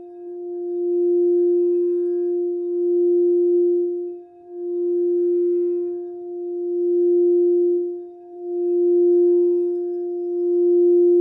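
Crystal singing bowl for the heart chakra, rimmed with a mallet to give one continuous pure low tone with a faint higher overtone. The tone swells and dips in loudness every few seconds as the mallet circles the rim.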